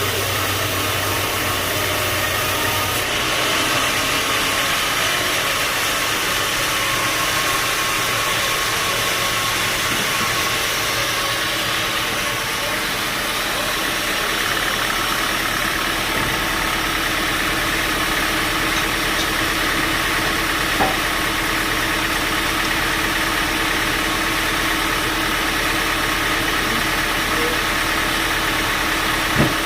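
Sawmill machinery running steadily, with a couple of short knocks, one about two-thirds through and one near the end.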